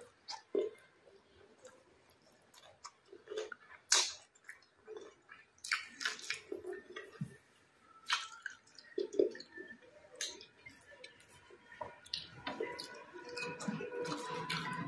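A person chewing a mouthful of rice and curry close to the microphone, with irregular wet smacks and small clicks.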